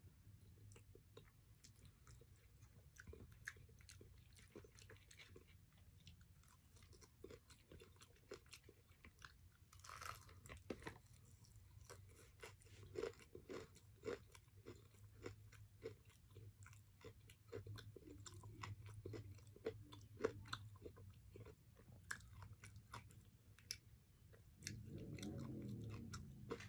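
Faint chewing and mouth sounds of a person eating palabok noodles, with scattered small clicks and scrapes of a plastic fork in a paper food box.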